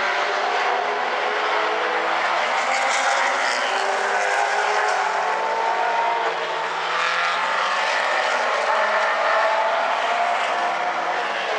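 Late model stock cars racing on a short oval: several engines running hard together at race speed, their notes slowly rising and falling as the cars pass.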